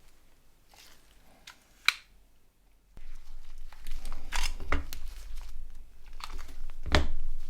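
Handling noise as a mobile phone teardown begins: a sharp click about two seconds in, then rustling, crinkling and small clicks over a low rumble from about three seconds in.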